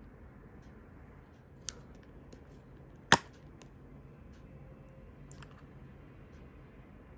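Scattered light clicks and taps of handling, with one loud sharp click about three seconds in and a smaller one a little before it.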